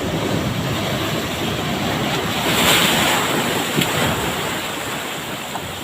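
Ocean surf: a wave breaks and washes in, swelling to a crash about two and a half seconds in and then dying away, with wind buffeting the microphone.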